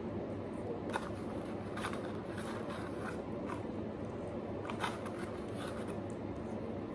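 A person chewing french fries close to the microphone, with scattered short crisp crunches and mouth clicks, the sharpest about a second in and near five seconds, over a steady low background hum.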